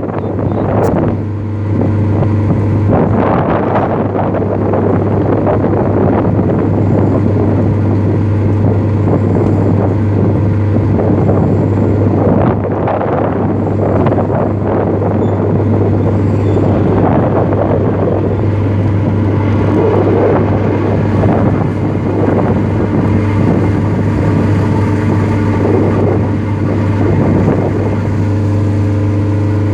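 A ship's engine drones steadily with a constant low hum, while gusts of wind buffet the microphone.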